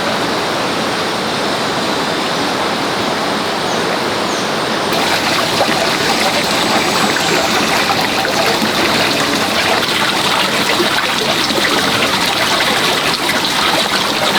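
Steady rushing of running water, a little louder and brighter from about five seconds in.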